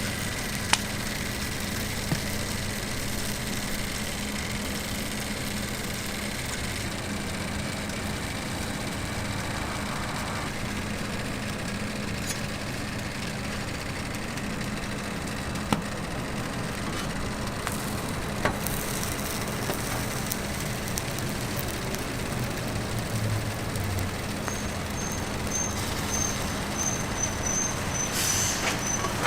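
Steady street background noise with a low hum and a few sharp clicks. Near the end come short high beeps, about two a second.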